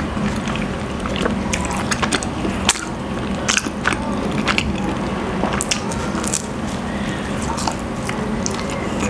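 Close-miked chewing of soft pandesal bread, with many short wet mouth clicks and smacks scattered through.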